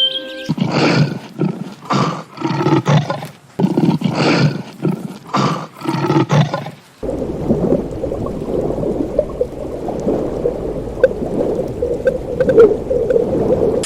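A large animal calling in a series of about six loud, separate calls, then a different steady, rough sound for the second half.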